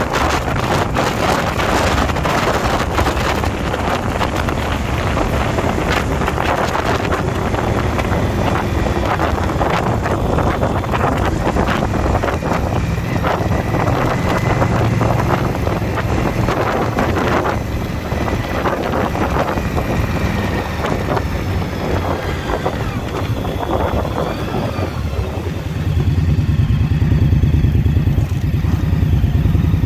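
Motorcycle engine running while riding, with wind buffeting the microphone. Near the end the engine note gets louder and the wind noise drops.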